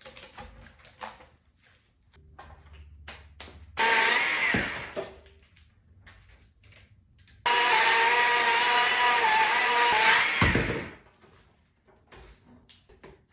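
Chainsaw running at high revs while cutting wood, in two bursts that start suddenly: a short one about four seconds in and a longer one from about seven seconds that stops near eleven. Light clicks and knocks come between the bursts.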